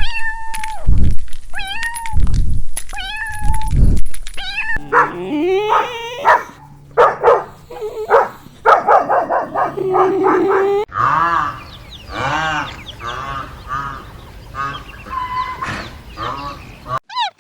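Cat meowing, one call about every second and a half, then a busier stretch of many overlapping high-pitched calls, several a second.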